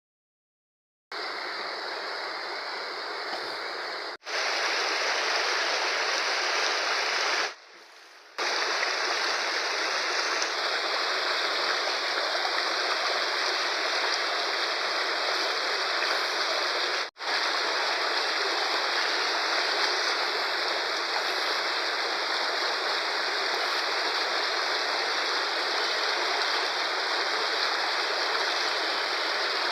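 Steady rush of a fast-flowing river. The sound drops out briefly at the very start and is quieter for about a second around seven seconds in, where the footage is cut.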